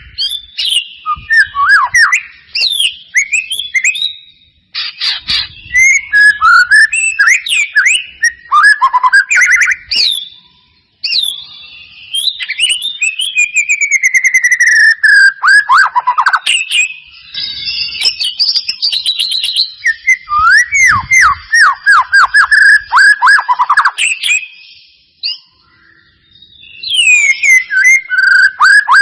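White-rumped shama (murai batu) singing a fast, varied song of loud whistles, sweeping falling notes and rapid trills, phrase after phrase with short pauses. It is lure song of the kind played to prompt a silent shama to sing.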